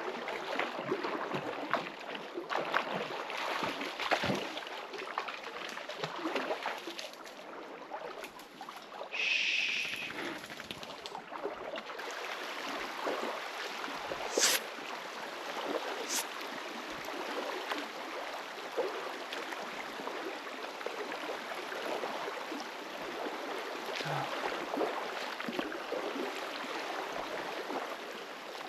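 Water splashing and sloshing with irregular steps wading up a shallow river, over the steady running of the stream, with a couple of sharp clicks around the middle.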